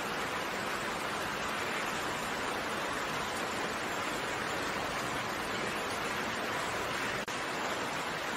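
Steady rain falling, an even hiss with no distinct drops standing out; it cuts out for an instant about seven seconds in.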